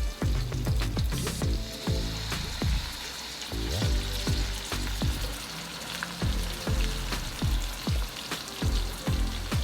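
Chicken pieces with garlic and ginger frying in an oiled pan, a steady sizzle, over repeated deep bass notes that slide down in pitch.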